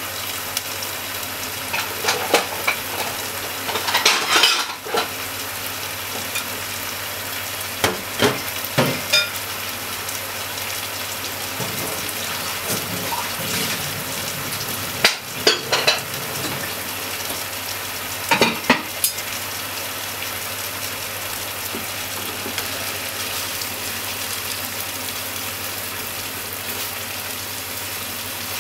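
Sliced pork and onions frying in their juices in a frying pan: a steady sizzling hiss, with short clusters of sharp pops and clicks every few seconds.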